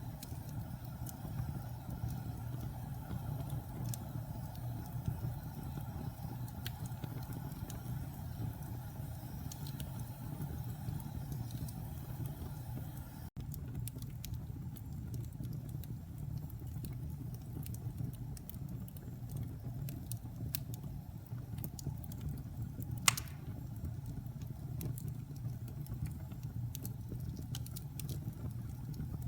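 Wood fire burning in a fireplace: a steady low rumble with scattered small crackles and one sharp, loud pop about 23 seconds in.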